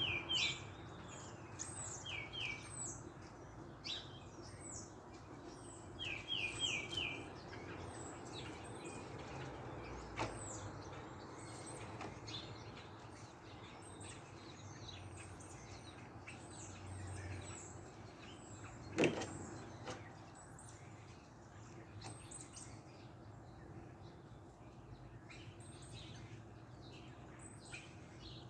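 Small birds chirping with many short, high calls throughout, including quick runs of three or four notes near the start and about six seconds in. A single sharp click about nineteen seconds in.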